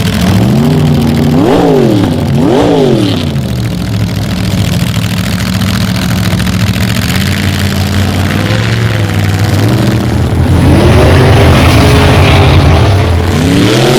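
Drag racing car's engine blipped twice in quick sharp revs, then idling steadily with a small rev later on. About three-quarters through, the engine sound gets louder and noisier, rising and falling in pitch, as the car runs under power.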